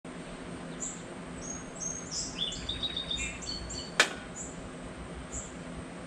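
Small birds chirping, a quick run of short high calls, with a single sharp click about four seconds in over a faint steady low hum.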